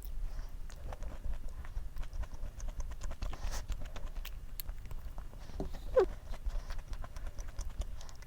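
Close-up chewing and crunching of a frozen snack, with many small sharp clicks and crackles.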